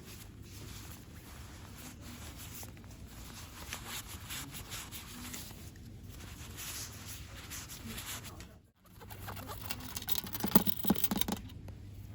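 Fast ASMR rustling, scratching and tapping on small store-bought items and their packaging, in quick runs of crisp clicks. It cuts out suddenly about nine seconds in, then comes back as a burst of sharper, louder taps with dull knocks.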